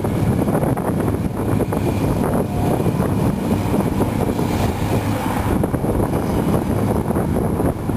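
Cat 345B hydraulic excavator's diesel engine running steadily under load as it works.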